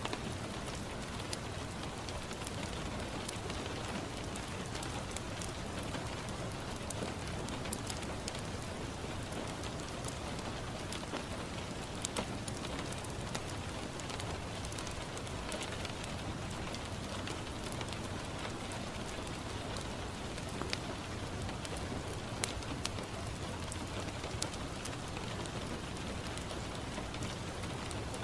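Steady rain falling on a window glass, with a fireplace crackling: scattered sharp pops and clicks over the even hiss of the rain.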